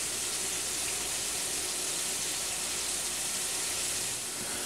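Flour-coated chicken tenderloins frying in extra virgin olive oil in a skillet: a steady, even sizzle.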